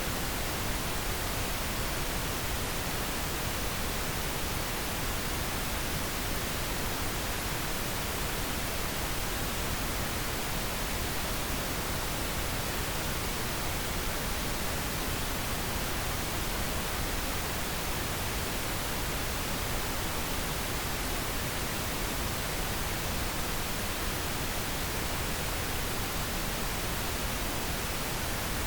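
Steady pink noise: an even, unchanging hiss spread across all pitches, played as a sleep aid.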